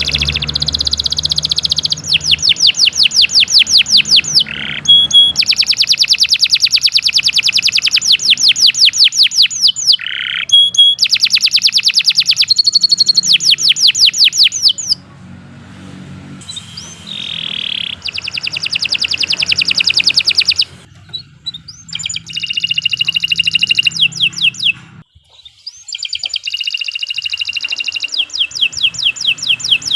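Domestic canary singing long, fast rolling trills, each phrase a rapid run of repeated sweeping notes, phrase after phrase with brief pauses about halfway through and again near the end.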